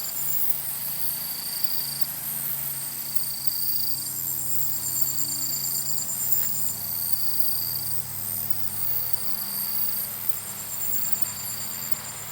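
Chorus of summer-evening insects trilling at several high pitches, some trills coming in repeating bouts of a second or two, over a low steady hum.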